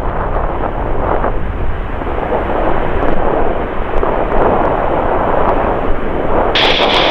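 Jet airliner's engines roaring loudly and steadily as a steady rushing noise, with a higher hiss joining in near the end.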